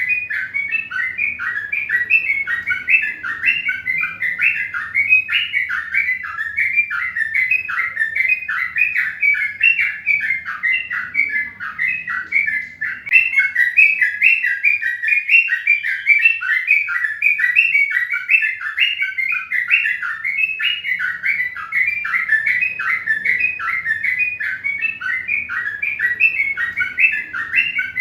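Birds chirping in a rapid, unbroken stream of short high notes, several a second, easing briefly about twelve seconds in.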